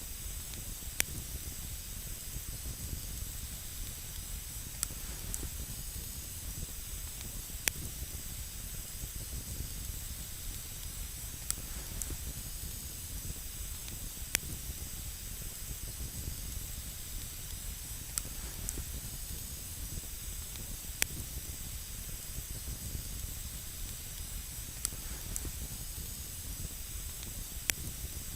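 Wood campfire burning on snow: a steady hiss with sharp single pops and cracks from the burning wood every few seconds.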